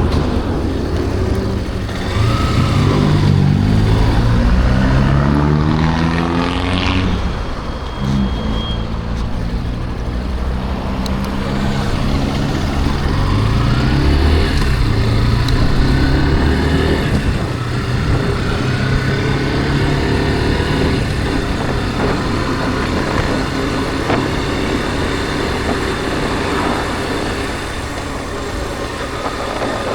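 Yamaha Factor 150 motorcycle's single-cylinder four-stroke engine pulling under way, its pitch rising and dropping back several times as it accelerates and shifts gears, over wind and road noise.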